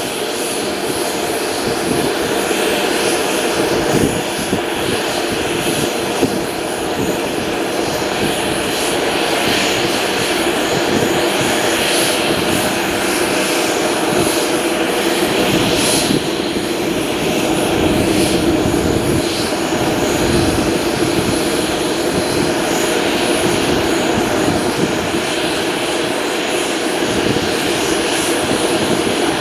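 Airliner engines running steadily: a continuous rushing sound with a steady whine over it.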